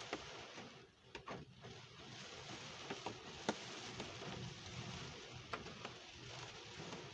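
Steady storm rain, a soft even hiss with scattered sharp taps of drops; the loudest tap falls about halfway through.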